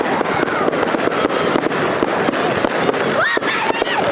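Dense, rapid crackling and popping, with a crowd's voices and shouts over it.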